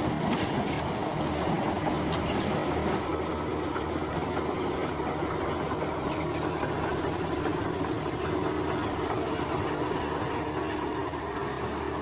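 Heavy earthmoving machine's diesel engine running steadily under a few knocks, with insects chirping in pulses high above it.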